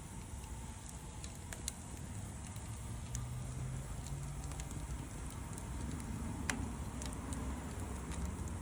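Campfire crackling: scattered sharp pops and snaps of burning wood, the loudest about six and a half seconds in, over a steady low rumble.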